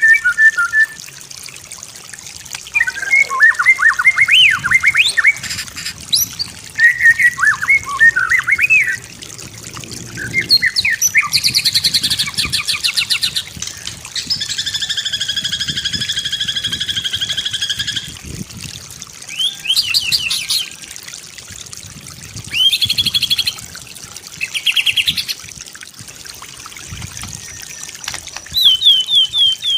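White-rumped shama singing a varied song: bursts of whistled, rising and falling phrases, a rapid stuttering trill, a long buzzing note of a few seconds, and a fast run of repeated notes near the end.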